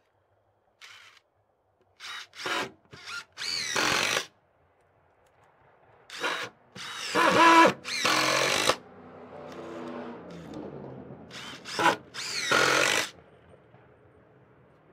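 Power drill running in about ten short bursts, each spinning up and winding down, with longer runs near the middle and end.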